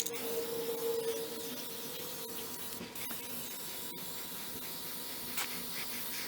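Aerosol can of Fluid Film undercoating spraying through its extension hose: a steady hiss.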